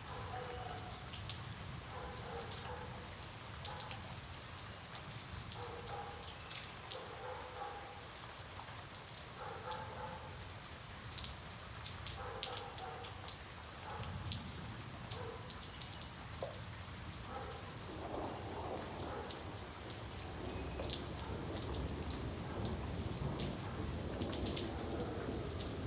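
Steady rain falling, with many sharp drips hitting a surface. From about halfway a low rumble of distant thunder builds and lasts to the end, and a faint two-pitched sound repeats every second or two in the first half.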